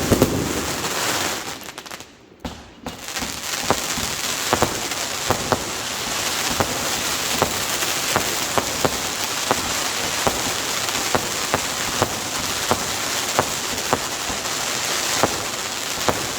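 Fireworks bangs in the first second or so, dying away. About three seconds in, a steady, dense crackling patter sets in, dotted with sharp pops a few times a second.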